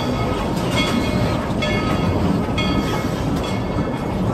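Narrow-gauge steam train rolling along the track: a steady rumble with wheels clacking over rail joints and brief high squeals coming and going about once a second as the cars round a curve.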